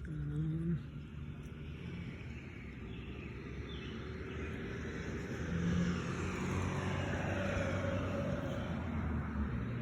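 A motor vehicle going by, its low engine hum and tyre hiss growing louder about halfway through.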